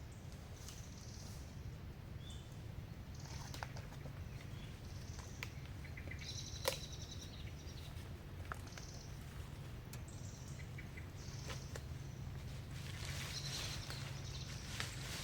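Forest ambience: short bird or insect chirps scattered over a steady low hum, with occasional light clicks and one sharp knock about six and a half seconds in.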